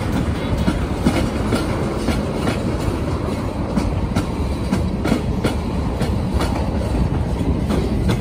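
Freight train of tank cars rolling past: steel wheels clicking over rail joints, over a steady low rumble.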